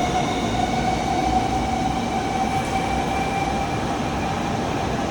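Shinkansen train running at the platform: a steady rumble of wheels and air with a steady high motor whine.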